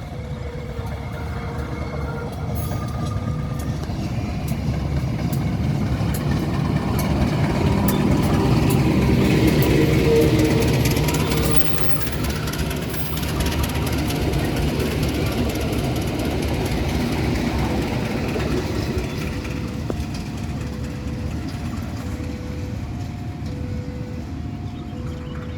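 Diesel train rumbling past, its engine and rail noise swelling to a peak around ten seconds in and then fading. A short electronic two-tone beep repeats about once a second throughout.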